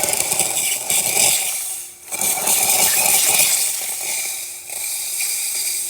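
Rancilio Silvia espresso machine's steam wand being purged: a strong, crackling hiss of steam that dips briefly about two seconds in and then comes back at full force. The strong steam shows the boiler reaching steam pressure after a new heating element was fitted.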